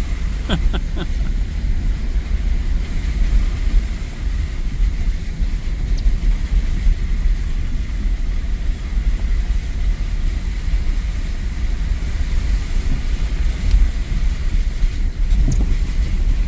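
Truck driving over a rough, snowy road: a loud, uneven low rumble, with a few short rattles about half a second in.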